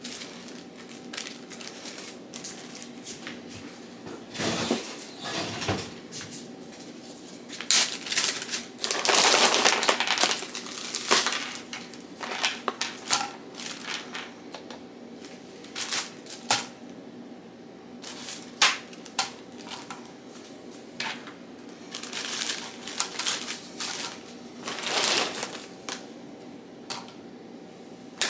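Kitchen handling sounds: dishes and utensils clinking and knocking at irregular intervals, with a few longer stretches of scraping or rustling.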